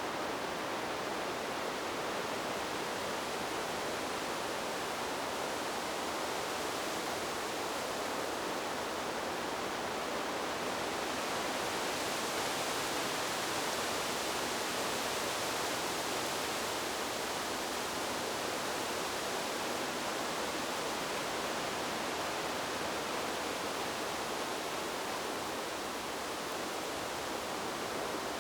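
Wind blowing through trees: a steady rushing noise that swells slightly about halfway through, then settles again.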